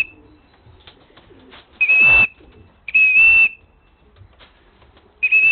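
A whistle blown in three short, shrill blasts of one steady high note, calling racing pigeons home into the loft.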